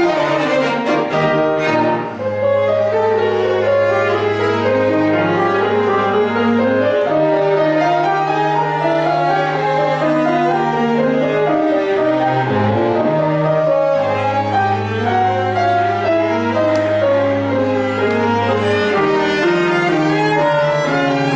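Piano quartet of violin, viola, cello and piano playing classical chamber music, the cello holding long low notes that change every few seconds under the moving violin and piano lines.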